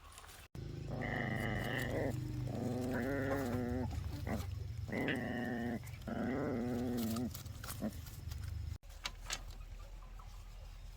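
A dog making four drawn-out, pitched vocal calls, each about a second long, over a low steady hum. The sound cuts in abruptly half a second in and cuts off abruptly near the end.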